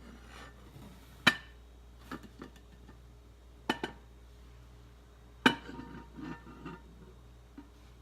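Cookware lids and pots being handled and set down: a handful of sharp clanks and clinks, the loudest about five and a half seconds in, some with a brief ring after.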